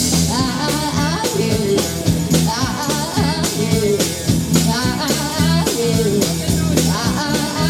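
Live blues-rock band playing: drum kit, steady bass notes and guitar, with a melody line that slides up and down in pitch.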